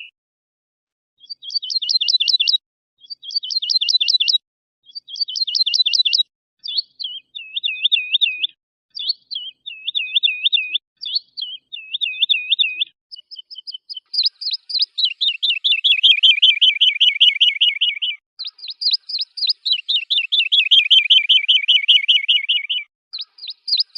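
Cage songbird song from a compiled training recording, played as a string of separate phrases. First come three short trilled phrases, then three rolling looping phrases, then two long fast trills of several seconds each.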